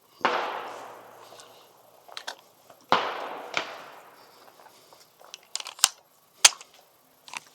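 Two shots from an Aero Precision EPC-9 9mm pistol-caliber carbine, about two and a half seconds apart, each echoing away over a second or so. Several shorter, sharper cracks follow in the second half.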